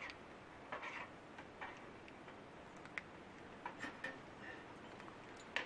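Metal cooking gear, a canteen cup and utensils, being handled: a few light, irregularly spaced clicks and taps over a faint steady background.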